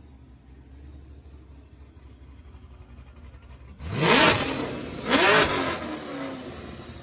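Built, supercharged 2016 Chevrolet Camaro SS V8 idling low, then revved hard twice, about four and five seconds in, each rev rising sharply and dropping back. A thin high whine falls away after the second rev.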